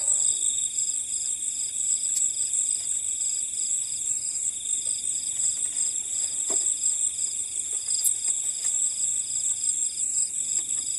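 Night insects, crickets among them, calling in a steady chorus: a continuous high-pitched trill layered with an even, rhythmic chirp that pulses several times a second.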